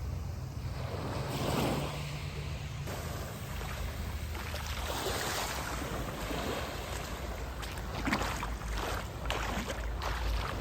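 Sea waves washing and surging, with wind buffeting the microphone and a steady low rumble underneath.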